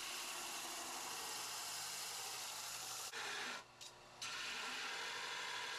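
Belt grinder with a 60-grit belt sanding a forged Damascus steel blade: a steady abrasive hiss over a low steady hum, which breaks off for about half a second a little past halfway and then resumes.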